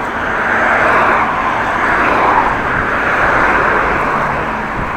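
A vehicle passing, its rushing noise swelling for about two seconds and then fading, over wind buffeting the microphone.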